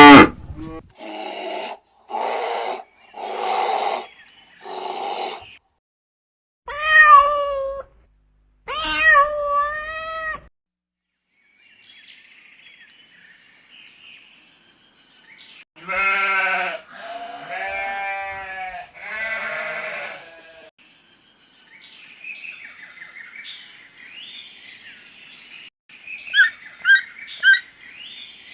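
A string of different animal calls: four short rough calls, then two bending pitched calls, then three longer pitched calls, with quick chirps near the end.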